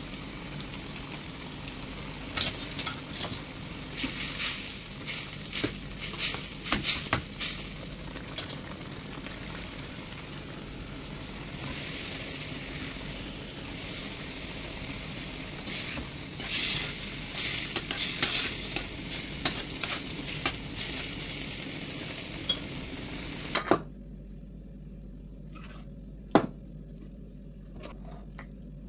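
Tomato sauce with green peppers and fried aubergine sizzling in a wok, with a utensil clinking and scraping on the pan as it is stirred. The sizzling cuts off suddenly about five seconds before the end, leaving a quiet room and one sharp clink.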